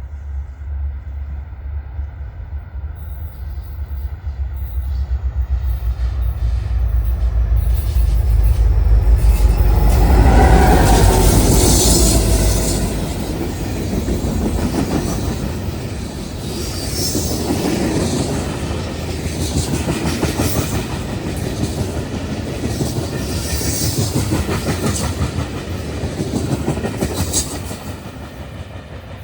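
A train passing: a low rumble builds to its loudest about ten seconds in, then rolling wheel noise with recurring clatter, easing off near the end.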